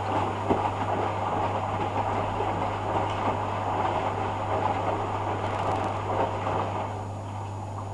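Hoover Dynamic front-loading washing machine on its rinse, the drum turning with a steady hum and an uneven churning of water and laundry. The churning dies down about seven seconds in, leaving a quieter hum.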